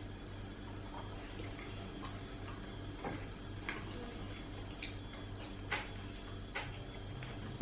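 Quiet close-up eating sounds: chewing and small mouth clicks and smacks, scattered irregularly, over a steady low hum.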